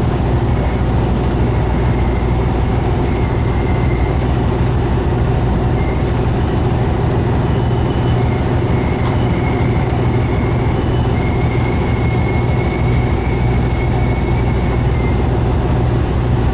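Steady running noise of a diesel train on the move, with a low continuous rumble. A faint high wheel squeal comes and goes several times, strongest in the second half.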